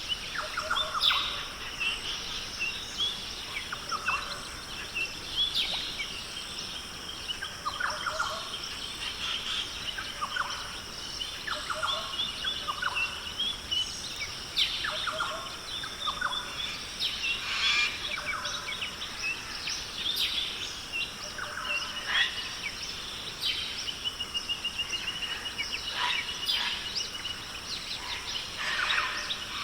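Australian rainforest birds calling: many short chirps and whistles from several birds over a steady high-pitched background hum. A rapid trilling call runs through the last few seconds.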